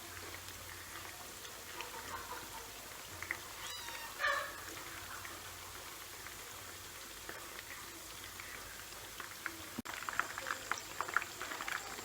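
Chicken thighs and wings frying in hot oil: a steady sizzle with scattered crackles, thickening into rapid popping from about ten seconds in. About four seconds in there is one short pitched call, like a meow.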